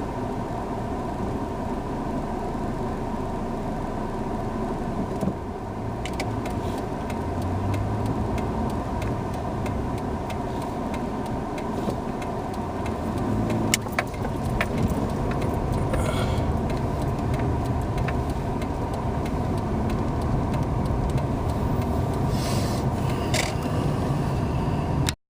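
Car driving, with steady engine and road rumble, scattered light clicks and one sharp knock about halfway through; the sound cuts off suddenly near the end.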